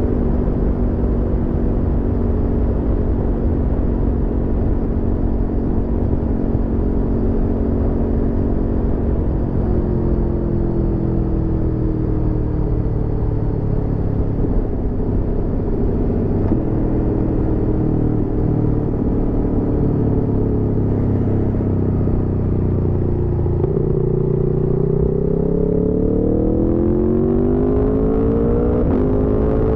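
Aprilia Tuono V4's V4 engine on the move, running steadily at first. From about ten seconds in it drops in pitch and eases off as the bike slows. Over the last five seconds it pulls up again, its pitch rising as it accelerates.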